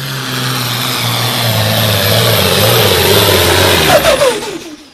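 Super stock pulling truck's engine running hard under load, then its note falls away and fades about four seconds in.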